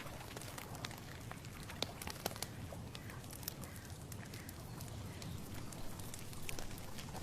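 Outdoor ambience: a low steady rumble with scattered, irregular light crackles and rustles throughout.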